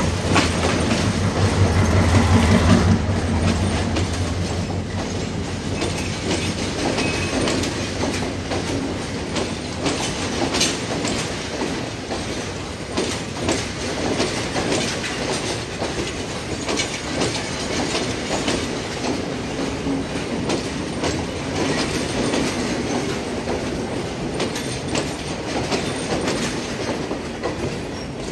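An EMD G22CW diesel-electric locomotive, Sri Lanka Railways Class M6, passes close by. Its two-stroke diesel engine throbs loudly for the first three seconds. Then its coaches roll past with a steady rumble and an irregular clickety-clack of wheels over rail joints and pointwork.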